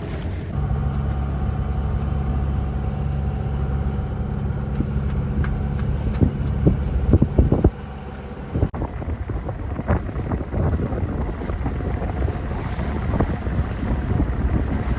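A steady low engine drone from a boat, over wind noise, for about the first half. It cuts off abruptly and gives way to wind buffeting the microphone and splashing water.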